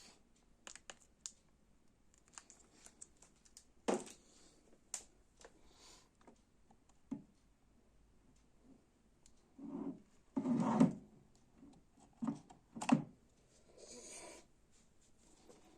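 A quiet room with no music playing, only scattered small clicks and a few louder handling knocks, the loudest about two-thirds of the way through.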